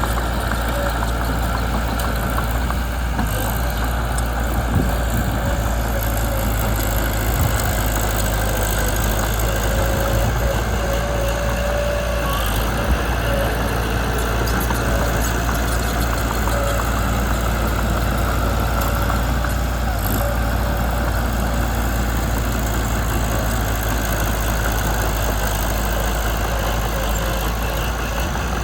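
Mitsubishi BD2 bulldozer's diesel engine running steadily, with a few brief knocks.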